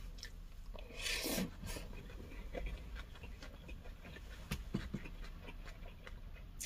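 A person eating: a short breath about a second in, then soft chewing with small mouth clicks.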